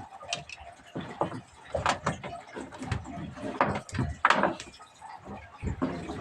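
A series of irregular knocks and clatters.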